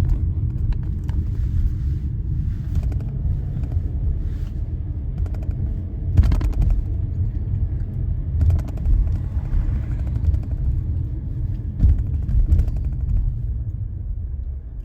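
Steady low rumble of a running vehicle, with scattered irregular knocks and clatter, the sharpest about six seconds in and near twelve seconds.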